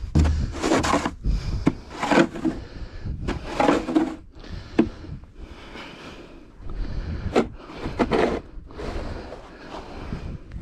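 Repeated crunching and scraping in soft, deep snow, short strokes roughly a second apart with a couple of sharp clicks.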